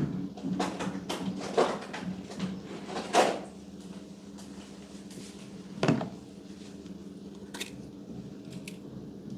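Slime being handled, squeezed and poked: a run of sticky clicks and crackles in the first three seconds and a louder pop about six seconds in, then a few scattered faint clicks over a steady low hum.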